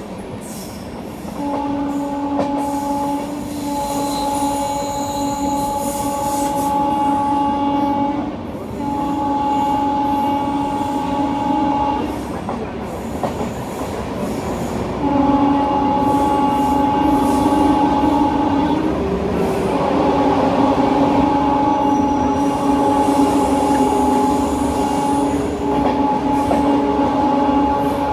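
Train horn sounding in a series of long, steady blasts with short breaks between them, over the steady rumble of a passenger train running along the track.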